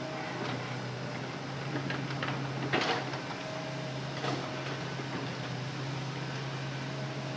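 Hitachi Zaxis excavator engine running with a steady low hum, with a sharp knock about three seconds in and a lighter one a second and a half later.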